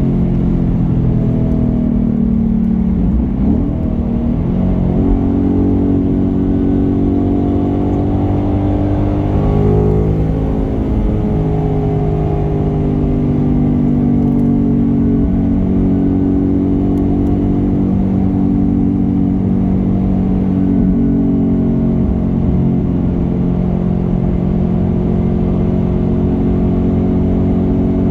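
Car engine running steadily, its pitch rising and falling briefly a few times as it is revved or changes speed.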